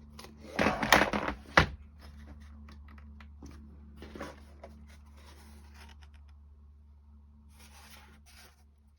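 Wooden clock-kit parts being handled and fitted together by hand: a short burst of scraping and rubbing with a sharp click about a second and a half in, then quieter scrapes and taps.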